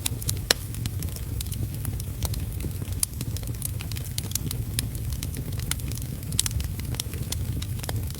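Wood fire in a fireplace crackling, with irregular sharp pops and snaps, some louder than others, over a steady low rumble.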